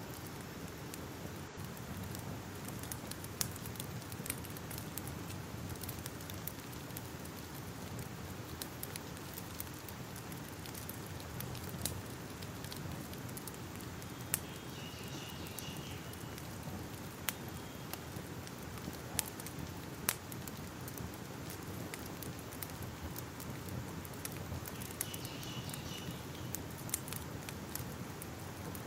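Wood fire crackling: a steady low rush of flames with irregular sharp pops and snaps. A faint short high tone is heard twice, about halfway through and near the end.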